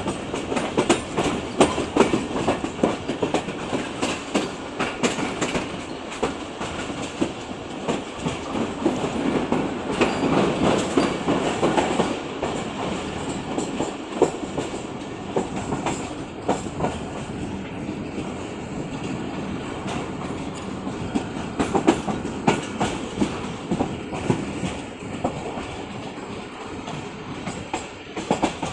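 Train running on the rails, its wheels clattering over the rail joints in quick irregular knocks over a steady rumble. It is louder in the first half and eases off somewhat after about halfway.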